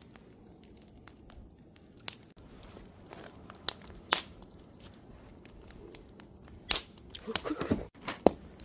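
Wood fire crackling: scattered sharp pops and snaps of burning wood over a low hiss, with a denser run of crackles about seven seconds in.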